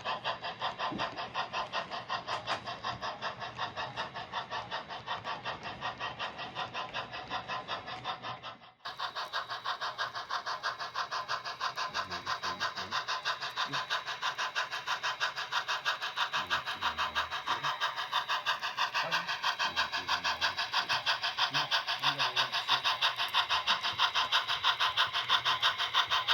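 Steam locomotive chuffing in a fast, steady beat of about four chuffs a second. It cuts out suddenly about nine seconds in, then starts again a little louder.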